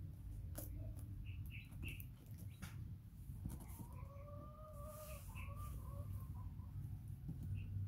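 Birds calling: a few short high chirps, then about halfway through one longer call that breaks into several shorter ones. Light clicks and scratches of fingers picking at a woven mat sound under it.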